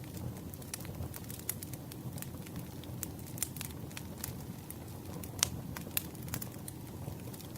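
Campfire crackling: a steady low rush of burning wood with frequent sharp pops and snaps at irregular intervals, the loudest pops about five and a half and six seconds in.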